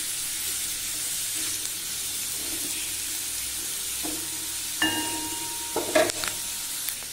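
Cubed potatoes frying crisp in oil in a kadai, with a steady sizzle, while a spatula stirs and turns them. A few sharp knocks and scrapes of the spatula against the pan come about five and six seconds in.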